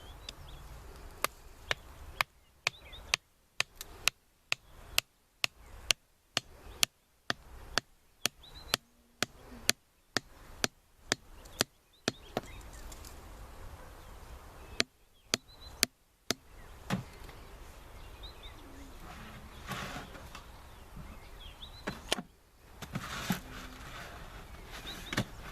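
Wood being chopped with steady sharp strokes, about two a second, for some eleven seconds. After a short pause come a few more strokes, then they stop, leaving outdoor background with faint bird chirps.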